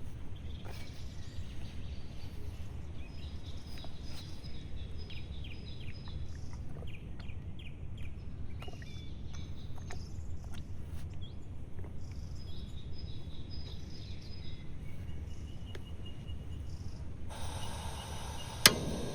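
Forest ambience: a steady low rumble with faint bird chirps now and then. A hiss comes in near the end, and a single sharp click is the loudest sound.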